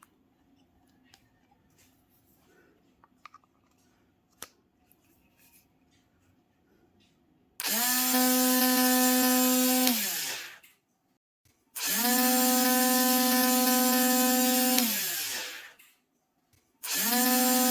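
Homemade mini DC drill's small motor switched on three times, each time running up at once to a steady high whine, then falling in pitch as it spins down after switch-off; faint clicks of handling before the first run. The third run is still going near the end.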